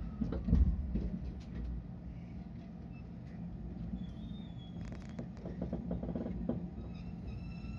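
Cabin ambience of a stopped electric commuter train: a steady low hum, a brief low rumble that swells about half a second in and fades, then a scatter of small clicks and knocks.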